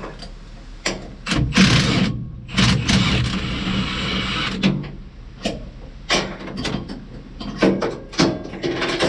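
Irregular metal clanks and knocks with short stretches of rattling as steel combine chopper blades are handled and laid out.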